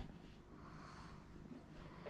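Near silence: faint room tone with a low hum, in a pause between spoken remarks.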